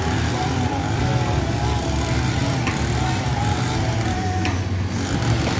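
Mitsubishi BD2F bulldozer's diesel engine running steadily. A wavering higher whine sits over it, with a couple of faint clanks.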